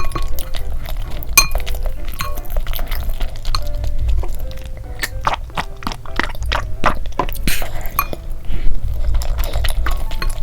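Eating utensils clinking and tapping against a dish in many short, irregular knocks, over light background music.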